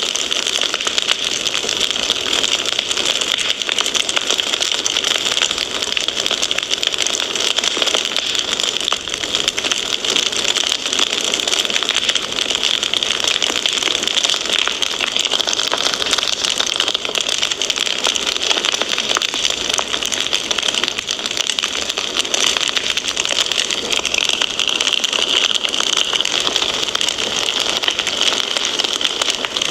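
Wood fire in a fireplace crackling steadily: a dense, unbroken stream of small pops and snaps.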